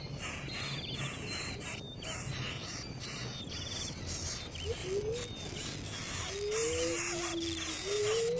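Outdoor natural sound: insects chirring in short repeated high trills, with a few short rising bird calls in the second half.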